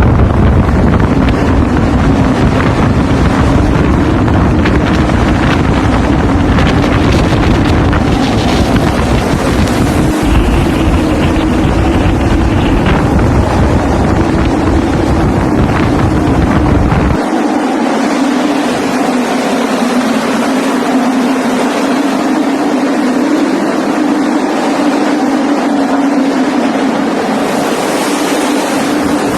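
Strong wind blowing hard and steadily, with a steady low drone underneath and heavy wind rumble on the microphone that cuts off abruptly about halfway through.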